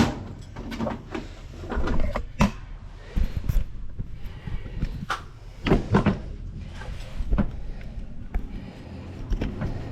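Irregular knocks and clunks, a few sharp ones standing out, of plumbing parts and tools being handled.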